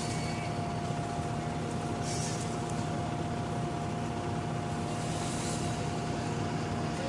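Engine running steadily at constant speed with an even whine, from the machinery at a concrete slab pour. There is a brief faint scrape about two seconds in.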